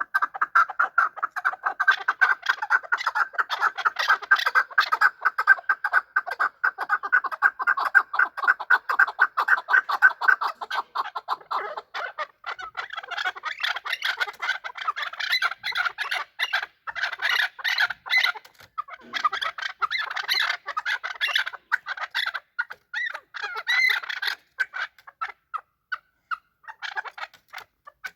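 Chukar partridge calling: a fast, unbroken run of clucking notes for about twelve seconds, then more broken, higher-pitched calls that thin out near the end.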